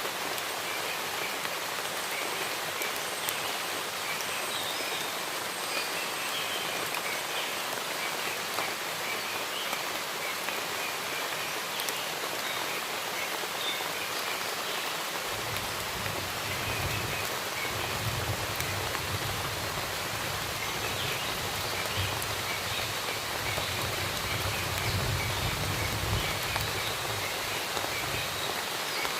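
Steady rain falling in a forest, with faint bird chirps scattered through it. About halfway in, a low rumble comes in and swells in waves.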